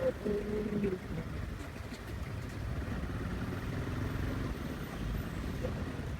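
Motorcycle engine running with steady rumble and wind noise on the microphone while riding.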